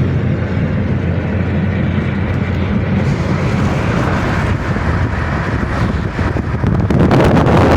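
A car driving, its engine and road noise a steady rumble that gets louder about seven seconds in, with crackling wind buffeting the microphone near the end.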